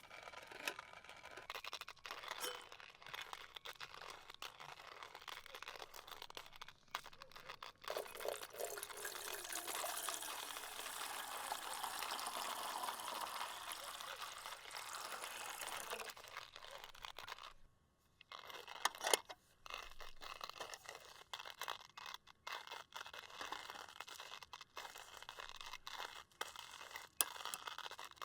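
Liquid being poured into a container for several seconds, among small clicks, knocks and crinkling from camp cooking gear being handled.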